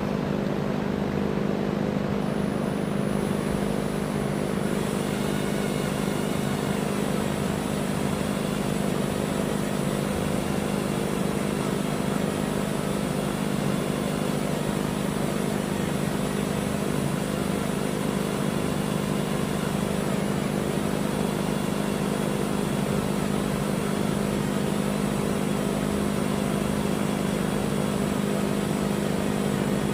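An electric drill running steadily as it bores through the Draco's steel rear trunnion: a constant motor hum, with a high whine that joins in a few seconds in and holds.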